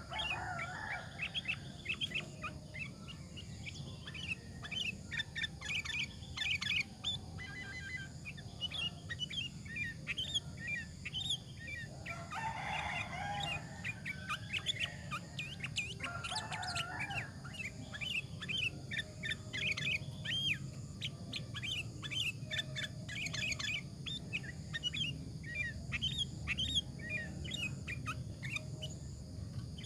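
Sooty-headed bulbul (kutilang) singing continuously in quick, chirpy phrases. About twelve and sixteen seconds in come two louder, rougher calls that reach lower, over a steady low background hum.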